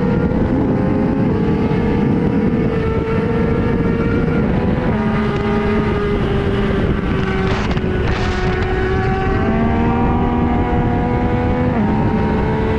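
Sportbike engine running hard under way, its pitch stepping up and down several times as gears change, with rushing wind noise.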